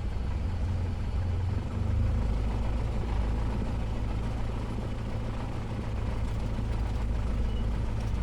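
Cessna 172S's four-cylinder Lycoming engine running at low power while the plane taxis into parking; the engine note shifts lower about two seconds in.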